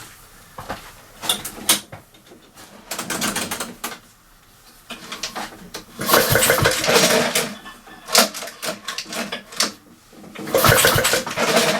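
Honda Izy lawnmower engine turned over several times on its recoil pull cord, each pull giving about a second of fast popping puffs. The popping is air pulsing out of an open crankcase breather hole whose breather pipe is missing.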